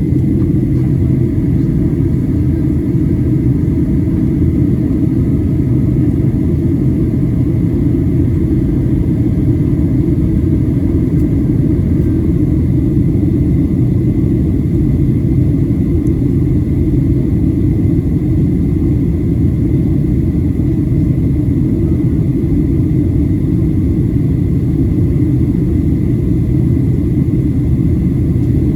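Steady cabin noise inside a Boeing 737-700 in descent: a loud, even low rumble of airflow and its CFM56 engines, with a faint steady whine above it.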